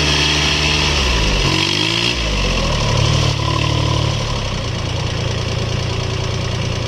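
Tractor diesel engine revving, its pitch rising and falling over the first two seconds, then settling to a steady run, slightly quieter after about four and a half seconds.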